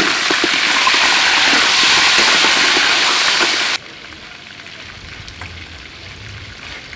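Mud crab pieces sizzling loudly in hot oil in a steel wok, with the clicks and scrapes of a metal ladle turning them. It cuts off abruptly about four seconds in to a much quieter steady hiss.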